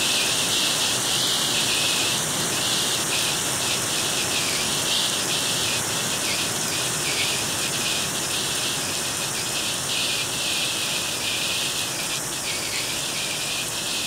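Heavy downpour of rain mixed with hail: a steady, dense hiss of drops and pellets striking the pavement and vehicles.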